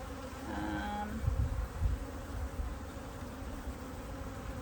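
Honeybees buzzing around an open top-bar hive: a steady colony hum, with a brief louder pitched buzz a little under a second in and a few low thumps about one and a half to two seconds in.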